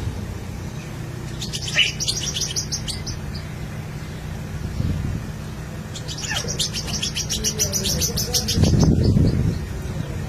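White-rumped shama chirping in two bursts of fast, high, repeated notes, a short one about two seconds in and a longer one from about six seconds in, over a steady low hum.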